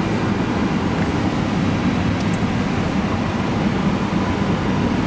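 Steady hum and rush of air on an airliner's flight deck, from the running APU and the air-conditioning airflow it feeds, with a low rumble underneath.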